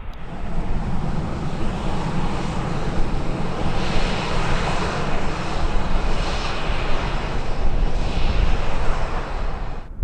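Jet airliner passing close with its engines running loud, a steady rushing noise that swells in the middle and begins and ends abruptly.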